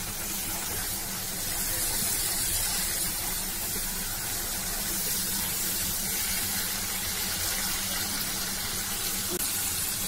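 Chopped yardlong beans sizzling in hot oil in a nonstick pan as they are stirred: a steady frying hiss that grows a little louder about two seconds in, with a low steady hum beneath.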